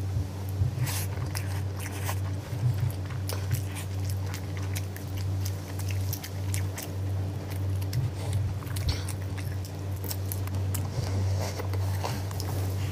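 Close-miked eating sounds of chicken biryani eaten by hand: irregular wet chewing, biting into a chicken leg piece and lip smacks, over a steady low hum.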